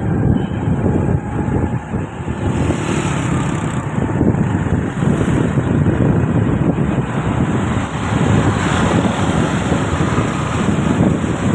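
Wind buffeting the microphone on a moving motorbike, a steady low rushing with road and traffic noise under it.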